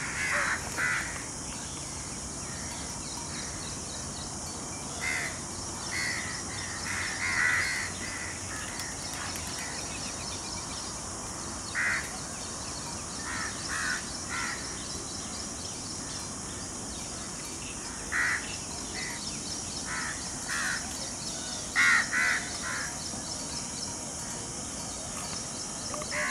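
Short bird calls, singly and in quick groups of two or three, scattered through a steady high hiss; the loudest are a pair about 22 seconds in.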